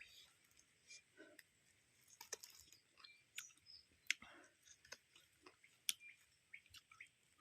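Faint close-up eating sounds: irregular wet mouth clicks and smacks of someone chewing.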